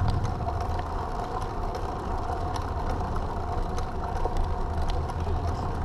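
A vehicle engine idling: a steady low rumble with an even hum over it and a few faint clicks.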